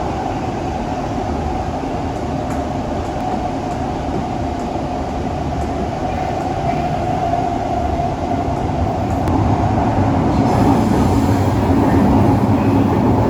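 Singapore MRT train's traction motors whining steadily from inside the carriage over the rumble of the running train, the running noise growing louder about ten seconds in.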